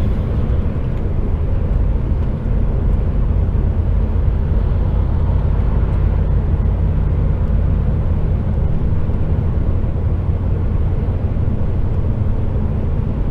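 HGV tractor unit's diesel engine and tyre noise droning steadily inside the cab while the lorry cruises along the road.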